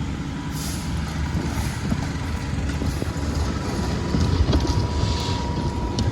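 Garbage truck's diesel engine running with a low rumble and a steady thin whine above it, with a few knocks and clanks, the loudest about four to five seconds in.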